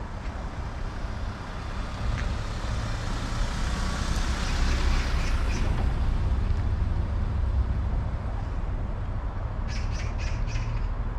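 A steady low engine rumble, swelling to its loudest about halfway through as if a vehicle passes, then a quick run of four or five short bird squawks near the end.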